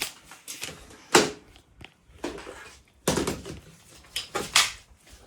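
A series of sharp knocks and clatters from parts and tools being handled and pulled at while working on the van, the loudest about a second in and several more in the second half.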